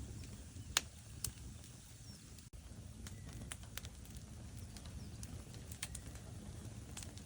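Wood fire burning in a fireplace: a steady low rumble of flames with scattered sharp crackles and pops from the logs, the loudest pop about a second in.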